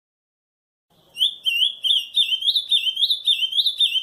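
Ultramarine grosbeak (azulão) singing the camaquã song: after about a second of silence, a fast run of hooked, whistled notes, about three or four a second.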